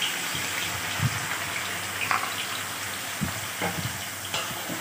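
Blended onion, garlic and ginger paste sizzling as it goes into hot oil in a wok: a steady frying hiss, with a few light knocks.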